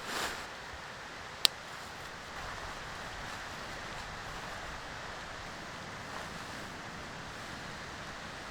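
Steady wash of sea surf and wind. A brief rustle at the start, and a single sharp click about a second and a half in.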